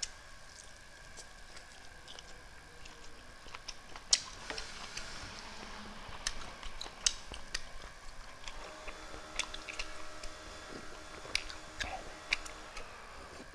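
Close-miked eating sounds: chewing and lip-smacking with irregular sharp mouth clicks as rice and boiled beef are eaten by hand. Near the end comes a sip from a bowl of broth.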